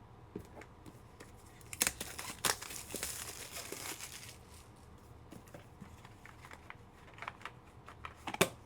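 Trading-card pack wrapper being torn open and crumpled: two sharp snaps about two seconds in, a stretch of rustling crinkle, then light clicks of handling and a louder snap near the end.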